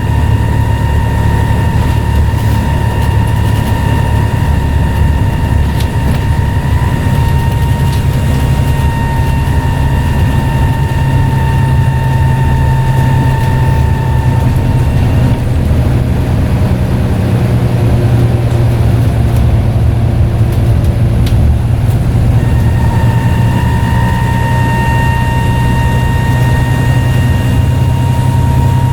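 Scania N94UD double-decker bus's diesel engine running under a heavy low drone, with a high, steady turbocharger whistle that sinks a little in pitch, stops about halfway through and comes back a few seconds before the end.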